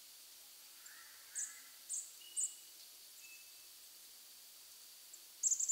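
Forest ambience with small birds calling: three short, high chirps about a second apart starting after a second, then a quick run of high chirps near the end, over a steady faint hiss.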